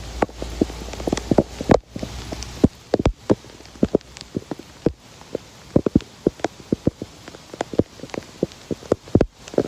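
Water splashing and dripping in quick, irregular plops over a steady hiss of water.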